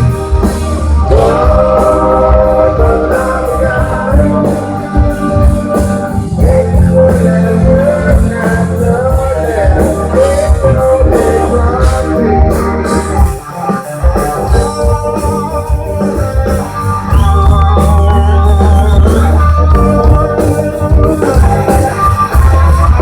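Live rock ballad: a voice singing over electric guitar and bass, with a brief high wavering guitar line about two-thirds of the way through.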